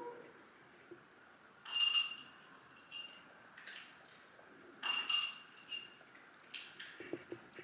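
Two bright, ringing clinks, about three seconds apart, with a few fainter ticks and taps between them.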